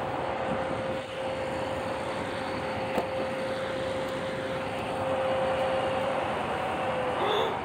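A train approaching on the electrified line: a steady rumble with a steady whine over it, which fades near the end. A single sharp click about three seconds in.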